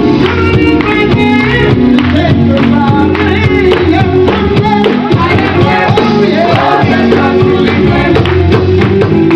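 Gospel group singing in harmony, backed by a live band with bass and drums.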